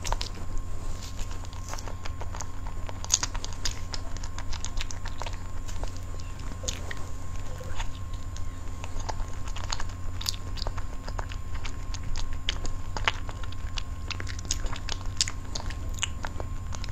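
Close-miked mouth sounds of a person eating soft cream cake: irregular wet clicks and smacks of biting and chewing, many small ones in quick succession, over a steady low hum.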